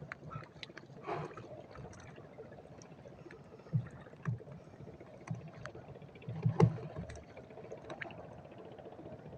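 Small fishing boat on the sea: scattered short knocks and thumps on the boat over a low wash of water, with the loudest cluster of knocks about six and a half seconds in.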